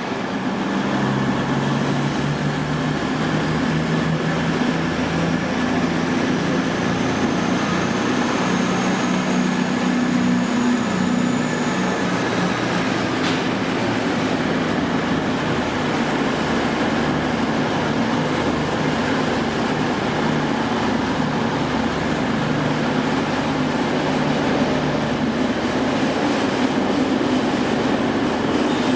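Diesel train running at the platform: a steady engine note, with a thin high whine that rises slowly over the first eleven seconds or so, and one brief click about thirteen seconds in.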